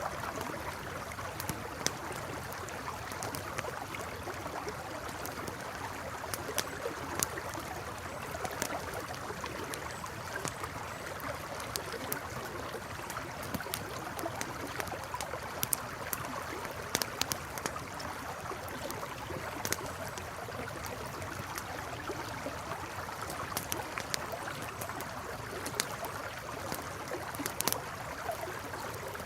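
A river streaming and gurgling steadily, with a campfire crackling over it in scattered sharp pops.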